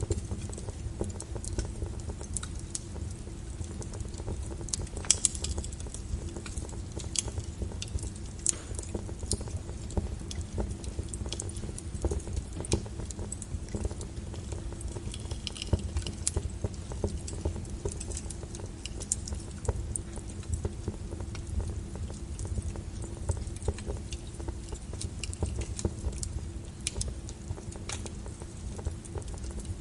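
Logs burning in a fireplace: a steady low rumble of the fire with irregular sharp crackles and pops, a few a second.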